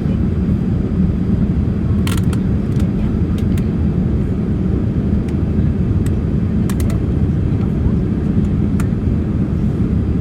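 Steady low roar of a Boeing 787 airliner's cabin in flight, engine and airflow noise, with a few faint light clicks scattered through it.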